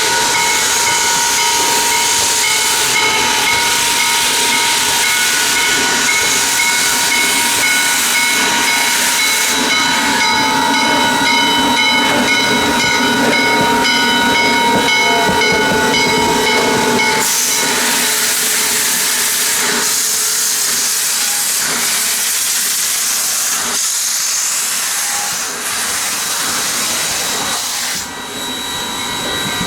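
Steam locomotive, the Chesapeake & Ohio 2-6-6-2 Mallet 1309, with a loud steady hiss of escaping steam. Over the hiss, several high tones are held together like a whistle chord for about the first seventeen seconds. After that the hiss runs on mostly alone, and the tones return near the end.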